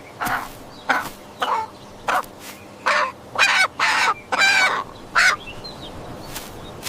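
A bird of the crow family calling repeatedly: about nine short calls, coming closest together around the middle, then stopping.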